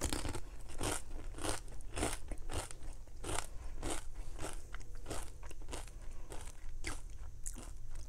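A person biting into and chewing a chip loaded with cheese dip, with crisp crunches about twice a second.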